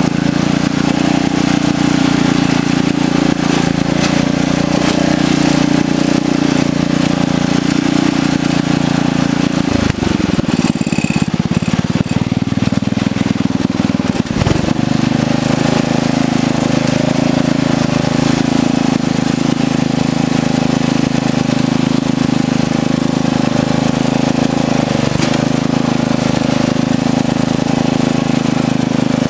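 Craftsman lawn tractor engine running steadily as the tractor is driven, its note shifting briefly about a third of the way through before settling again.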